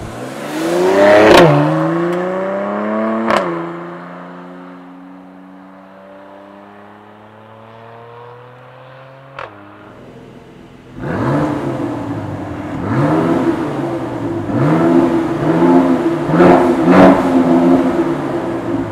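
Mercedes-AMG C43's twin-turbo V6 revving up, with two sharp exhaust cracks about a second and a half and three seconds in, then its note falling and fading as the revs drop. About eleven seconds in the engine picks up again, its revs rising and falling over and over, roughly once a second.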